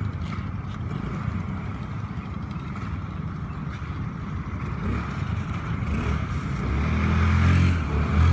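Taxi boat's engine running with a low rumble over the noise of water and wind. About seven seconds in it gets louder and takes on a steady pitched drone as the engine is opened up.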